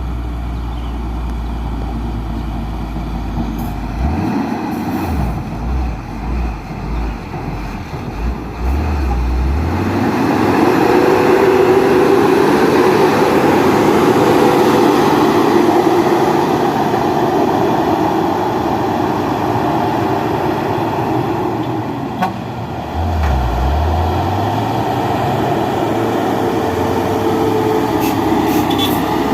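Loaded dump truck's diesel engine labouring up a steep climb, a low rumble that grows much louder about a third of the way in as the truck nears and holds a strained, steady note. About three-quarters through the engine note dips briefly and picks up again.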